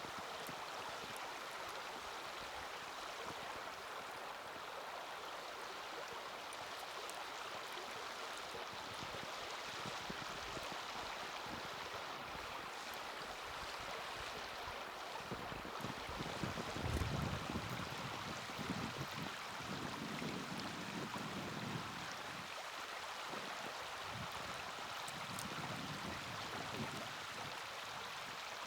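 Steady rushing of flowing water, with faint scattered crackles from a small wood fire. A low rumble swells about halfway through and again near the end.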